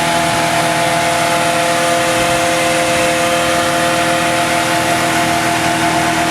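GAZ-66 army truck's engine running at steady revs, with a constant drone and no change in pitch.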